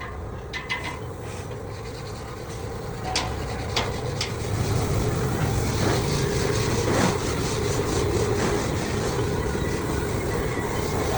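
A machine running steadily with a low hum, a few sharp clicks about three to four seconds in, and the noise growing a little louder after that.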